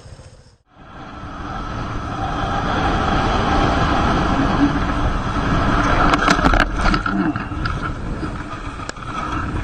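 Vehicle noise with wind, building up over a couple of seconds after a brief drop and then holding steady. A quick cluster of sharp clicks or knocks comes about six seconds in.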